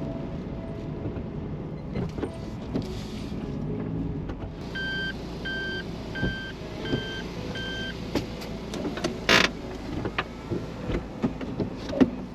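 Inside a Suzuki Every kei van while it is being parked: a low engine and road rumble, five short electronic beeps about 0.6 s apart about five seconds in, then a series of clicks and one sharp knock a little after nine seconds in.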